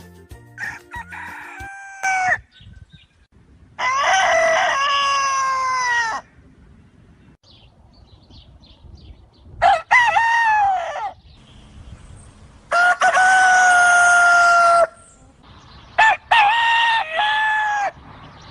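Rooster crowing four times, each crow lasting about one and a half to two seconds, with shorter, quieter calls in the first two seconds.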